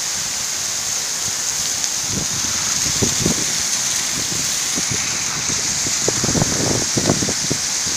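Heavy rain falling in a steady hiss, with irregular low thumps from drops or gusts hitting near the microphone that come more often toward the end.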